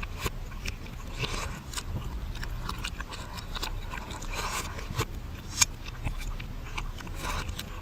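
Close-up mukbang eating sounds played backwards: chewing and biting with crackly, clicking bursts, and one sharp loud click a little over two-thirds of the way through.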